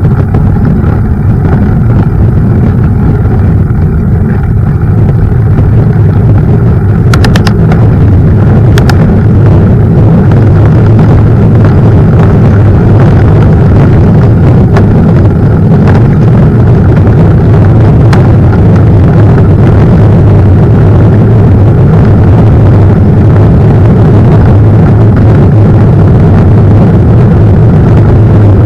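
Loud steady rumble of wind buffeting the camera microphone and tyre noise while riding a mountain bike on a trail, with a few sharp clicks, several in a cluster about seven to nine seconds in and one more later.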